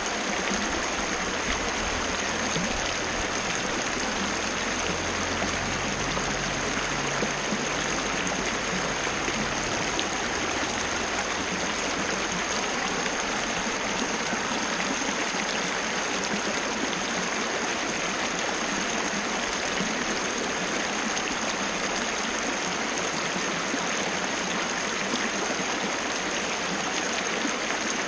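Small waterfall: water falling and splashing in a steady, even rush, with a thin high tone over it.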